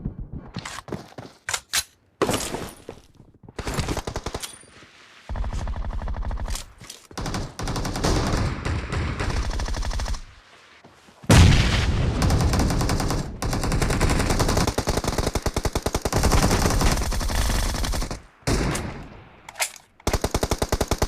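Automatic gunfire in a team shooter video game: repeated bursts of rapid shots with short pauses between them, the loudest burst starting about eleven seconds in.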